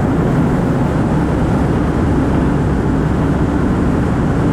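Steady road noise from a 2004 Ford Focus driving at highway speed: an even low drone of tyres and engine with some wind.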